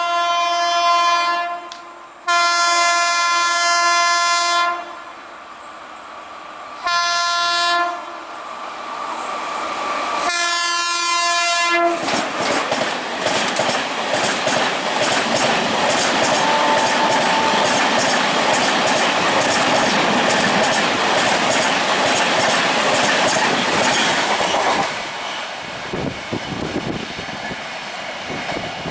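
Indian Railways express train's locomotive horn sounding four blasts, two long and then two short, followed by the train passing at high speed with a loud rush and rapid wheel clicks over the rail joints, dropping away about 25 seconds in.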